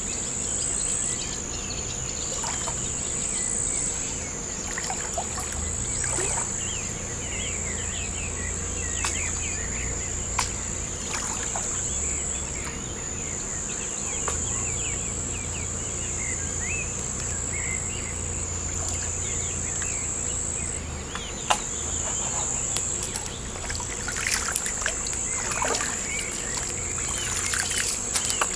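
Crickets chirping in a steady, high-pitched chorus. Small clicks and trickling water sounds come and go underneath and grow busier near the end.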